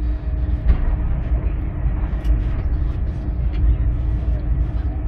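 Moving train heard from inside the passenger carriage: a steady low rumble of wheels on the rails, with a constant hum and a few light clicks.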